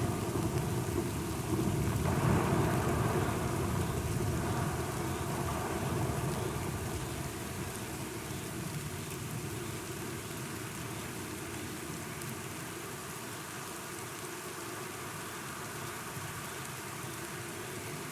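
Steady rain, with a low rumble of thunder that swells about two seconds in and slowly dies away.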